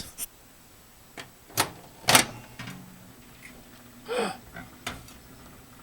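A few sharp clicks and knocks from the microwave's glass turntable tray, then a faint low steady hum and a short pitched squeak as the tray seems to shift on its own.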